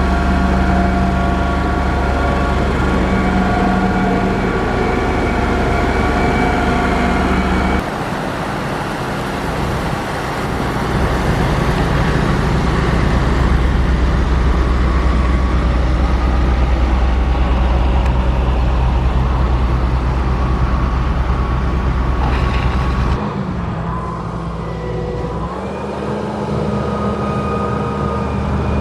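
Heavy diesel engines of road-construction machinery running steadily with a deep drone. The sound changes abruptly about 8 seconds in and again about 23 seconds in.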